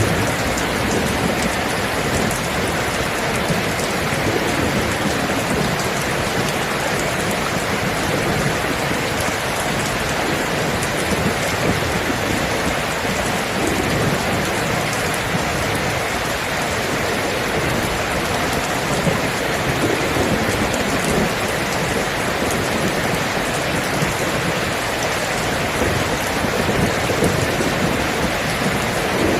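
Steady heavy rain falling, an even dense hiss, with a low rumble of thunder swelling up now and then underneath.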